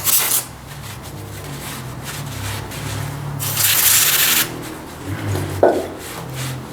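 Aerosol cleaner sprayed in two hissing bursts, a short one at the start and a longer one of about a second midway, with handling noises between them and a single knock near the end.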